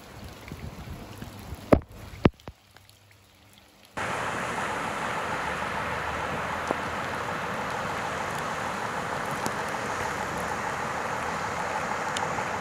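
Steady rainfall, an even, close hiss that starts abruptly about four seconds in. Before it, quieter water sounds and two sharp clicks.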